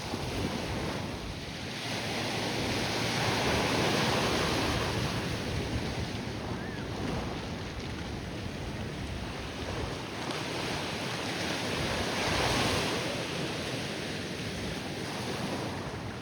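Ocean surf washing in on the beach, a steady rush that swells louder twice, a few seconds in and again about twelve seconds in, as waves break, with wind buffeting the microphone.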